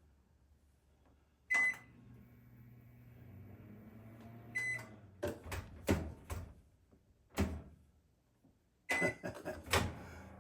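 Microwave oven control-panel beep, then the oven runs with a low steady hum for about two and a half seconds and stops with a second beep. After that come a series of sharp clicks and knocks, several close together and more near the end.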